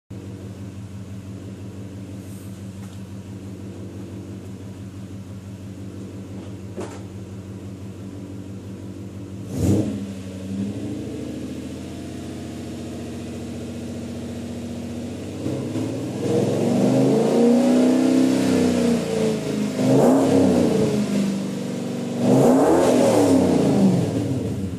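Toyota 1UZ-FE V8 idling steadily through an aftermarket exhaust of custom extractors and stainless Supercat mufflers, blipped once about ten seconds in. In the second half it is revved several times, the note rising and falling with each rev before dropping back to idle.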